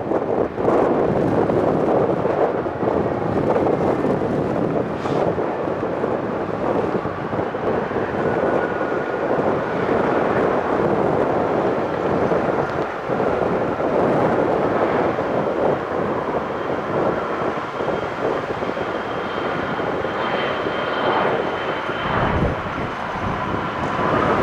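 Jet airliner engines running, a steady rush with faint high whining tones through it, with wind buffeting the microphone.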